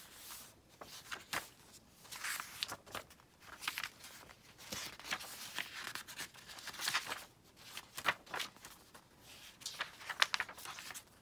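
Paper pages of a thick handmade junk journal being turned and handled: irregular paper rustles and soft crinkles, several to a second.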